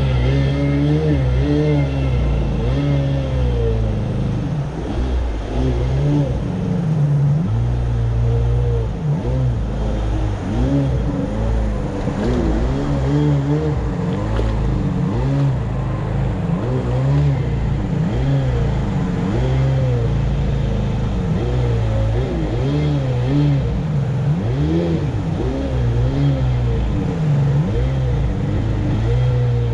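Jet boat engine revving up and dropping back again and again, its pitch rising and falling over and over, as the grounded boat tries to work itself free.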